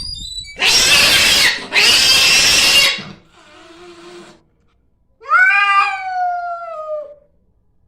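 A cat makes two loud, harsh hissing bursts of about a second each, then one long drawn-out yowl that falls slightly in pitch.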